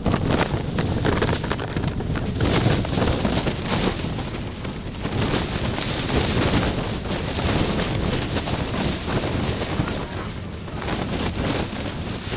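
Wind buffeting the microphone: an uneven rumbling noise that swells and eases.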